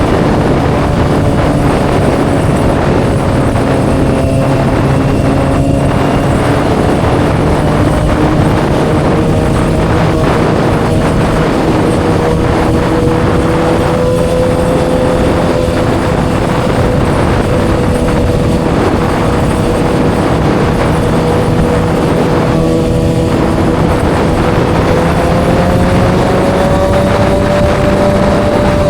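Kawasaki ZX-6R's inline-four engine running through an M4 aftermarket exhaust at a steady, slowly drifting engine speed, over a rush of wind noise; the engine pitch rises slightly near the end.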